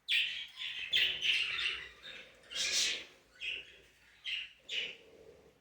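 Pet parrots calling in a string of short chirps, about nine of them, each under half a second.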